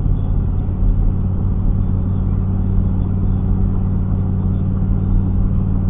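Steady engine and road-noise drone of a moving car, heard from inside the cabin, with a constant low hum.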